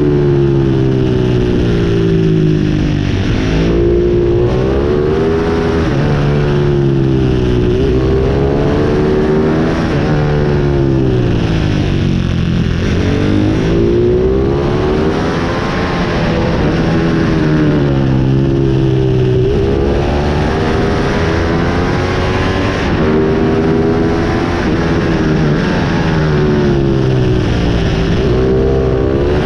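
Pit bike engine running hard, its pitch climbing and then dropping again every few seconds as the throttle is opened and closed.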